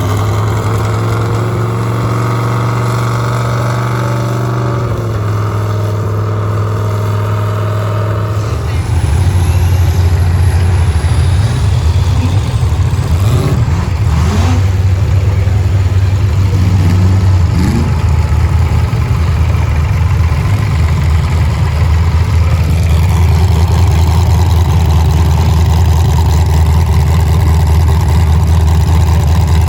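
Demolition derby car engines running loud and steady, their low drone shifting in pitch about nine seconds in.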